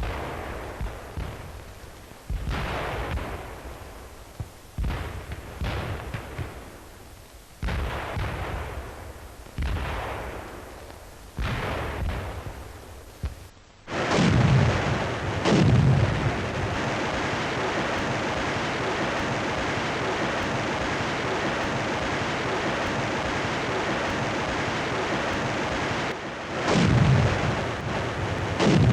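Rocket-launcher bombardment: a string of sudden blasts about every one to two seconds, each dying away. About halfway through the sound cuts abruptly to a steady hiss, broken by two pairs of heavy booms.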